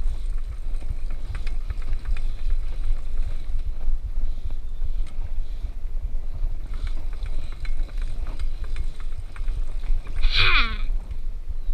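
Steady low rumble of wind on the microphone with faint scattered clicks. Near the end comes a short voiced 'Ha!' that falls in pitch.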